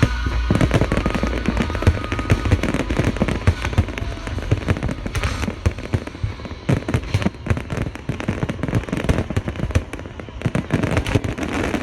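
Aerial fireworks going off in rapid succession: a dense, unbroken run of pops and bangs with crackling.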